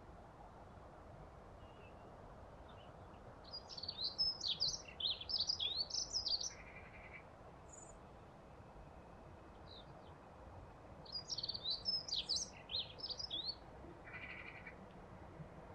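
A songbird singing two quick phrases of high chirping notes, each about three seconds long: one a few seconds in and one past the middle. Short lower notes follow each phrase, over a faint steady outdoor hiss.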